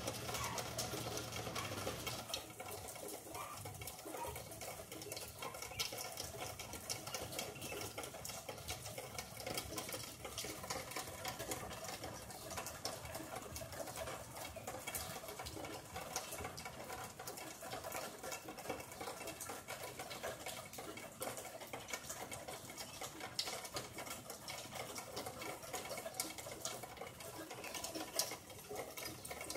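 Steady rain falling outdoors, a dense patter of many small drops.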